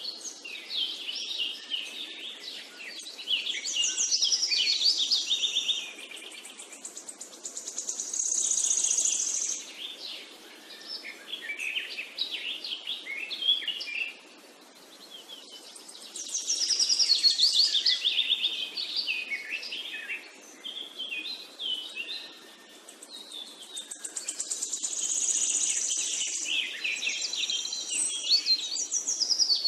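Songbirds singing: a chorus of high chirps and rapid trills that swells and fades every several seconds.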